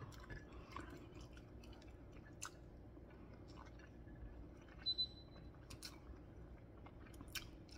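Quiet chewing of tender, fatty pork humba and rice, with small wet mouth clicks; two sharper clicks come close together about five seconds in.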